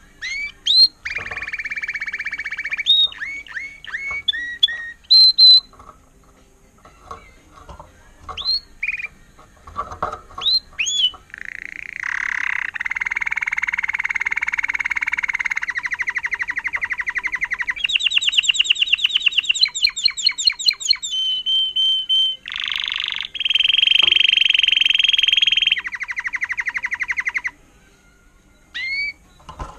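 A canary sings Timbrado-style song. Short rising chirps open it, then long rapid trills and rolls of fast repeated notes run on for several seconds each, stepping between pitches. The song pauses near the end, with a couple of last chirps.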